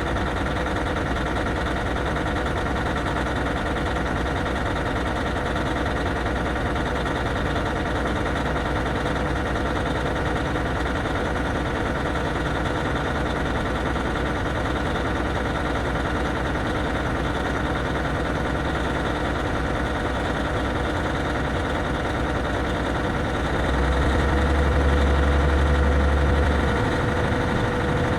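Caterpillar C15 inline-six diesel in a Kenworth W9L truck idling steadily after a cold start. It grows louder and deeper for about three seconds near the end.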